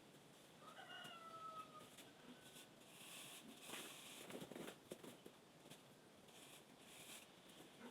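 A single faint, short pitched call, like an animal's, about a second in, then light scattered taps and rustling.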